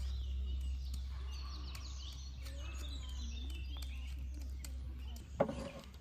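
Small birds chirping and singing over a steady low rumble. About five seconds in, the rumble stops and a single sharp knock sounds.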